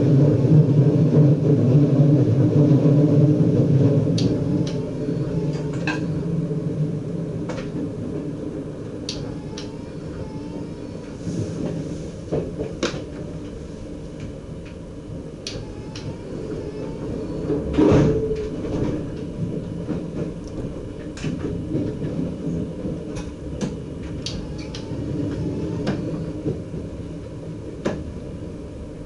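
DM'90 diesel railcar heard from inside the driver's cab: a steady low engine and running rumble, loud for the first four seconds or so and then dropping away. Scattered sharp clacks come from the wheels over rail joints and points, with one louder knock about 18 seconds in.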